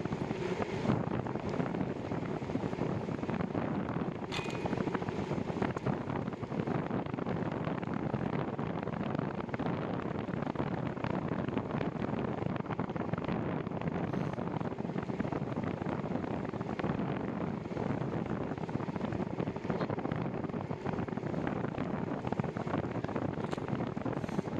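Wind buffeting the microphone of a moving bicycle rider, a steady rough rush with no pauses.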